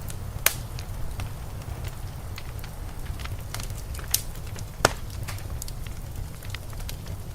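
Wood fire crackling in a fireplace: scattered sharp snaps and pops, two louder ones about half a second and nearly five seconds in, over a steady low rumble.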